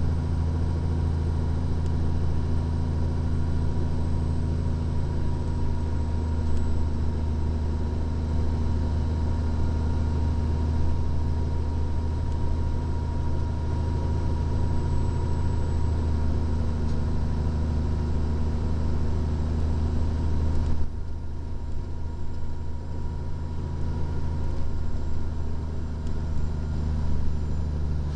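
Engine of a 2014 Freightliner Columbia glider semi truck running steadily, heard from inside the cab as a low drone with road noise. About 21 seconds in the sound changes abruptly: the higher noise drops away and the engine's pitch shifts, then it runs on steadily.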